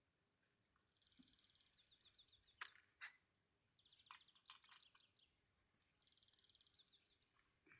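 Faint birdsong: three quick trilled phrases, each about a second long, with a few sharp clicks between them.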